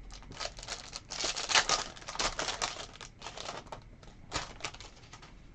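Foil trading-card pack wrapper crinkling as it is torn open and handled, in irregular crackles that are thickest in the first half, with a sharper crackle near the end.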